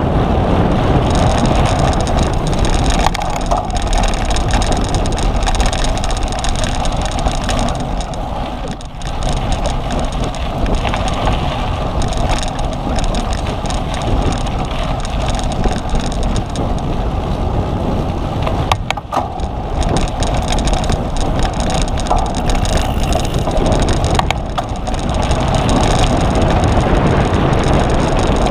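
Riding noise from a cyclocross bike on a race course: steady wind rush and low rumble on the microphone, with the bike rattling over rough ground and a few sharp knocks about two-thirds of the way through.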